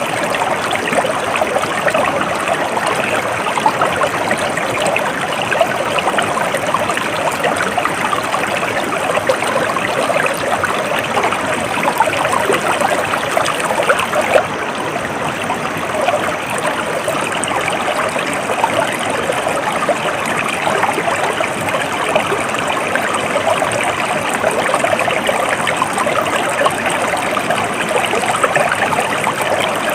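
Stream water flowing and trickling steadily over rocks, a continuous babbling rush with no pause.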